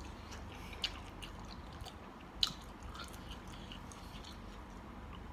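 A person chewing a mouthful of spicy mixed seafood salad close to the microphone: wet mouth sounds with scattered sharp clicks, the loudest about two and a half seconds in.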